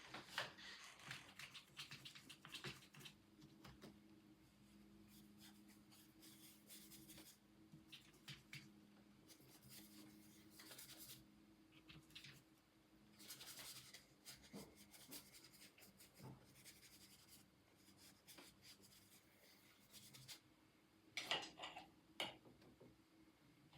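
Faint, irregular strokes of an art tool on paper: gouache brushwork or oil pastel rubbing and scratching. There are flurries of strokes near the start, about midway and near the end.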